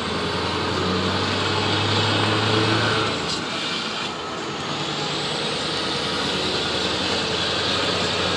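Scania R500 V8 truck engine with an open exhaust pipe, running; its note swells for about the first three seconds, then eases back and runs on steadily.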